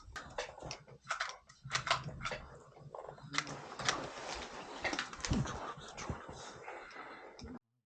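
Irregular clicks, taps and knocks of hand work on panels and tools, stopping abruptly near the end.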